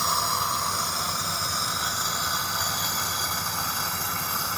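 Dodge Dakota pickup engine idling with a steady hiss, as a sprayer mists water into its open intake. The water turns to steam to clean out carbon and clogged catalytic converters.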